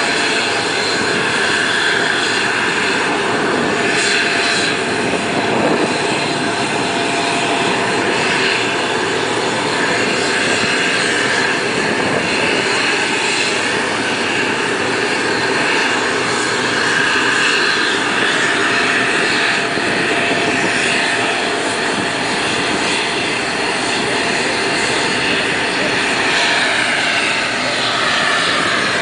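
Military aircraft engines during a flyby: a loud, continuous drone whose pitch slowly shifts as the aircraft passes, with a sweep in pitch near the end.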